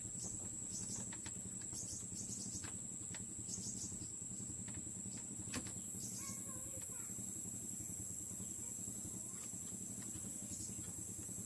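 Faint ambient background: a steady, high insect drone from crickets, with a low hum beneath. Scattered light clicks and taps run through it, and a brief bird chirp comes about six seconds in.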